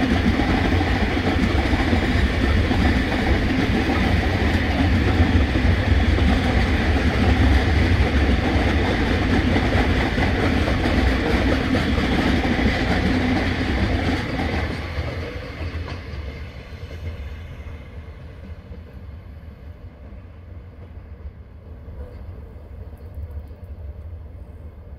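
Container wagons of a long freight train rolling past, their wheels running on the rails in a steady rumble. The sound drops away about fifteen seconds in and stays fainter.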